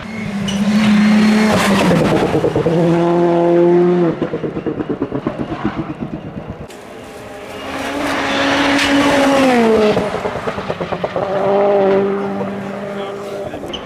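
Rally car engine at full throttle going past, its pitch stepping up through gear changes and falling away as it passes. There is a rapid fluttering stutter in the engine note about four seconds in, as the throttle lifts.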